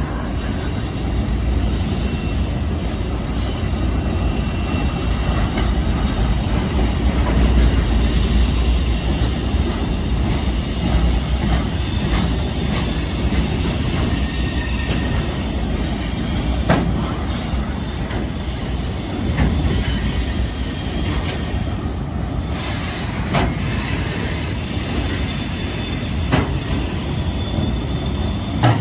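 Railcars of a passing CSX military freight train rolling by: a steady low rumble of wheels on rail with faint high-pitched wheel squeal and a few sharp clicks of wheels over rail joints.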